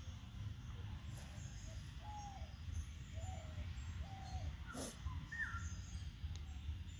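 Birds calling in the background: a few short calls spaced about a second apart, then a higher call with a downward slide, with one sharp click shortly before it. A steady low rumble runs underneath.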